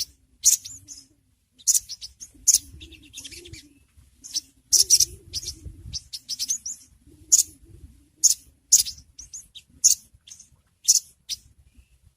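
Sogon (sogok ontong, crimson sunbird) giving sharp, very high chirps. They come singly and in quick little runs at irregular intervals, a call used as a lure to get kept sogon singing.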